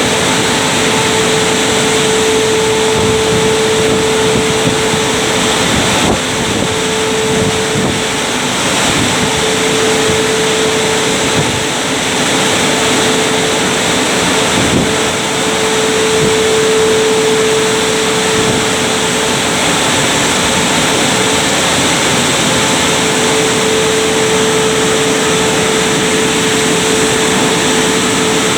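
A Christ Genius automatic rollover car wash running: a loud, steady mechanical whir with one constant tone that stays even throughout.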